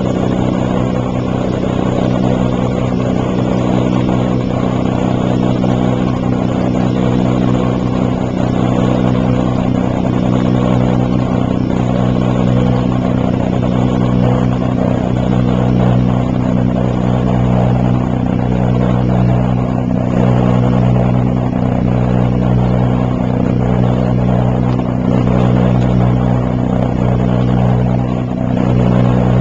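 1957 James portable dishwasher running: a steady motor hum under an even rush of water spraying inside the tub.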